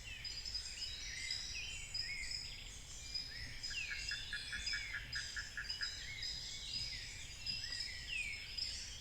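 African montane forest dawn chorus: many birds singing at once in overlapping whistles, chirps and gliding notes. From about four seconds in, a rapid series of short pulses, about five a second, runs for roughly two seconds under the birdsong.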